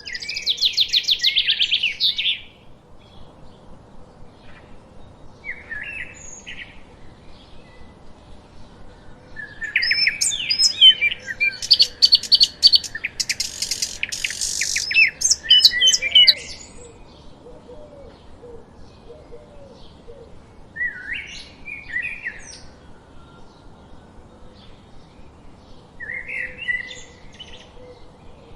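Songbirds singing and chirping: a rapid trill at the start, a dense stretch of overlapping songs in the middle lasting several seconds, and short single phrases later on. A faint steady hiss runs underneath.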